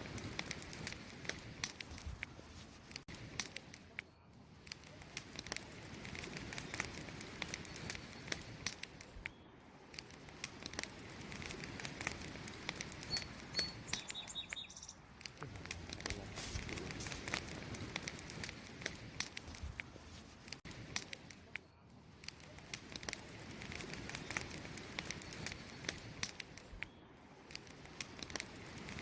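Wood campfire crackling, with dense, irregular sharp pops and snaps over a soft steady rustle of burning wood, swelling and easing every few seconds. A few faint high chirps come about halfway through.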